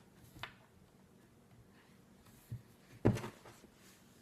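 Soft handling noises of slime being worked in the hands, mostly quiet, with a louder squish about three seconds in.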